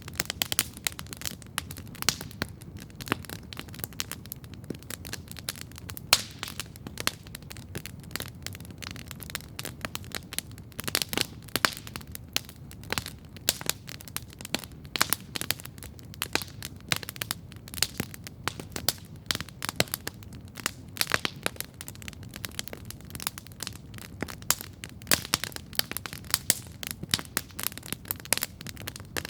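Wood campfire crackling steadily, with frequent sharp pops and snaps over a low steady rush of the flames.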